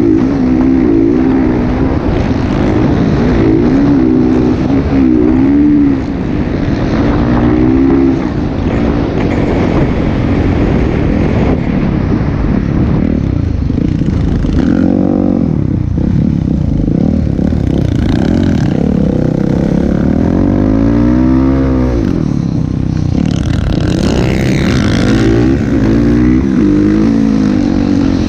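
Motocross dirt bike engine running hard, its pitch rising and falling over and over as the rider opens and shuts the throttle.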